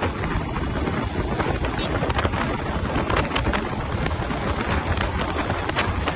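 Wind buffeting the microphone while riding: a steady rushing rumble, with scattered small clicks and rattles throughout.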